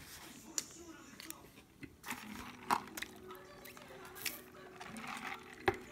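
Close-miked chewing of a McSpicy Shanghai burger, its crispy fried chicken patty crunching, with several sharp crunches.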